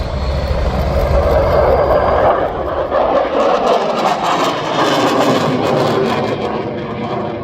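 Aircraft flying past, loud, with a rushing engine noise that swells through the middle. A low pulsing throb underneath dies away about three and a half seconds in.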